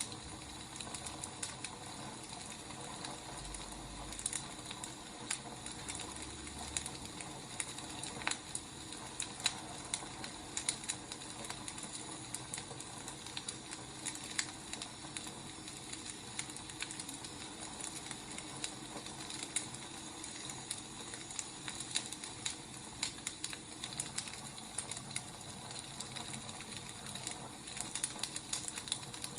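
Wood fire crackling: a steady hiss with irregular small pops and snaps.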